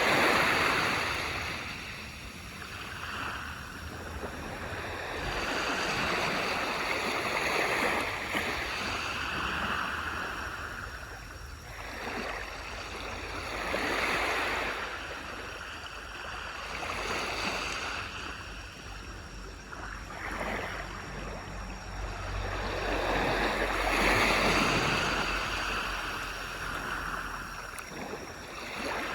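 Small waves breaking and washing up a beach, swelling and ebbing every few seconds in a steady rushing wash.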